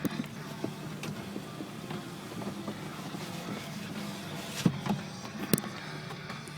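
Car engine idling with a steady low hum as the car creeps into an automatic car wash, with a couple of sharp knocks a little over four and five seconds in.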